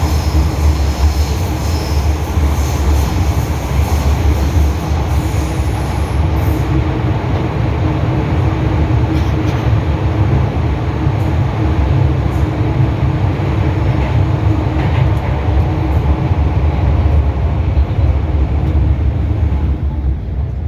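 An MTR M-Train electric multiple unit running at speed: a steady rumble of wheels on rail with motor hum. A faint high whine in the first few seconds fades away, and the noise eases slightly near the end.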